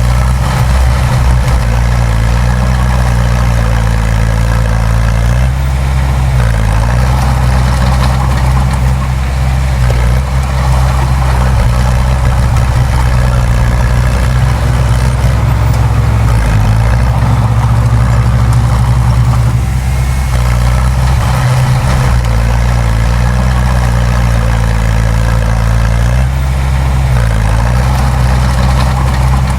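Bulldozer's diesel engine running steadily and loudly, its pitch dipping briefly a few times.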